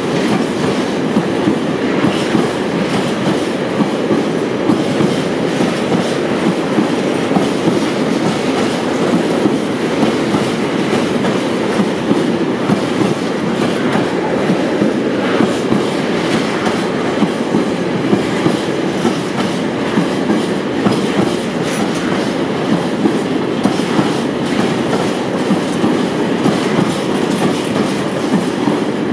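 Freight train of tank wagons passing close by: steady rolling noise of steel wheels on the rails with a continuous clickety-clack of wheels running over the rail joints.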